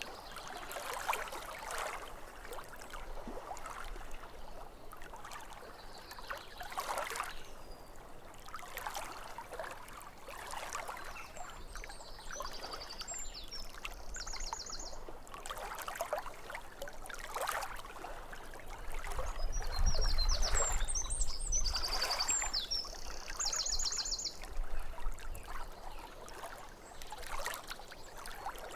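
Lake water lapping against the shore in irregular small splashes, with a songbird singing twice, each phrase ending in a fast high trill. A low rumble swells under the water for a few seconds about two-thirds of the way through.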